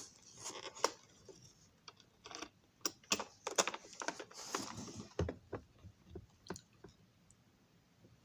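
Light clicks, taps and rustles of small plastic model train cars being handled, irregular and sharp, dying away near the end.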